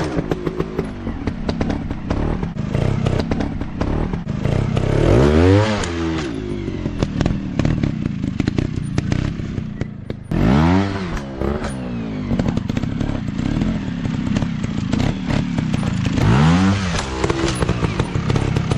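Dirt bike engine running and being revved up and back down four times, roughly every five to six seconds, with scattered clattering knocks throughout.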